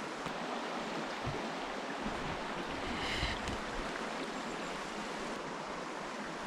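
Steady rush of a flowing river, with a brief rustle about three seconds in.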